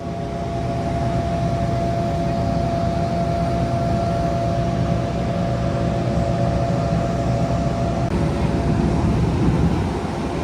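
Aircraft engine noise: a steady, loud rushing with a constant whine over it. The whine changes pitch slightly about eight seconds in.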